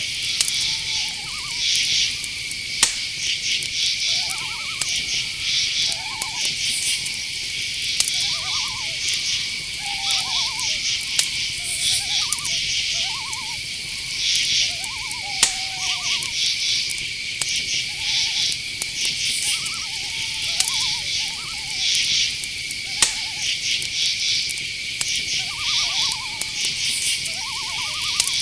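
Night-forest insect chorus: a steady cricket drone with pulsed, chirping insect trills above it. Owls give short, curved calls every second or so. A few sharp ticks come through, the loudest about three, fifteen and twenty-three seconds in.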